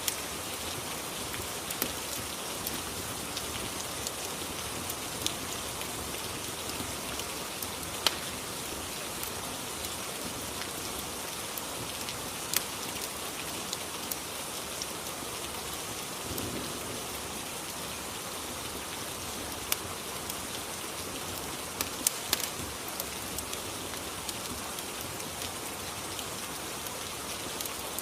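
Steady rain ambience, an even hiss of falling rain, with sharp clicks and pops scattered through it, the loudest about 8, 12 and 22 seconds in.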